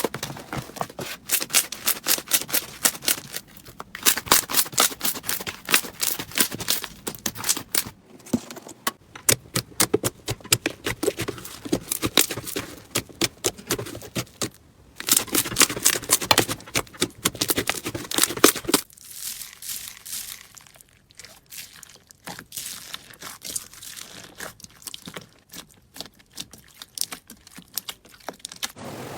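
Slime being worked by hand, making dense crackling and popping clicks. The clicks pause briefly twice, then turn sparser and quieter for the last third.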